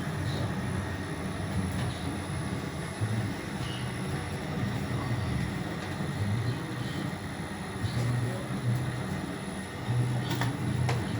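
A machine running with a steady low rumble, with a few sharp clicks near the end.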